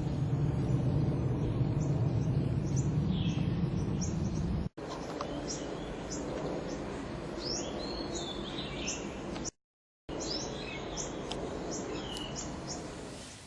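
Small birds chirping repeatedly over a steady low rumble that is heavier in the first few seconds. The sound cuts off abruptly about five seconds in, and drops out completely for about half a second near ten seconds.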